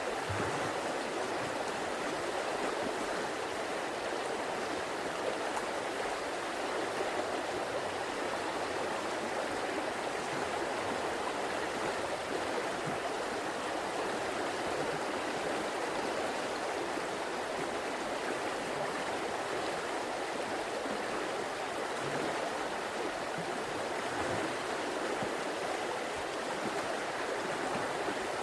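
River water flowing and rushing steadily over stones, a constant even burble.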